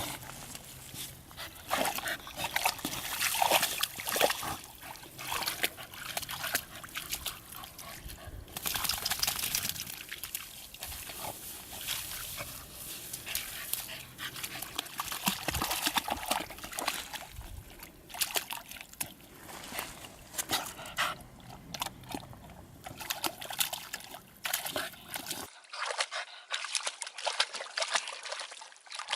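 A puppy splashing and sloshing about in muddy ditch water, in irregular bursts, over a trickle of running water.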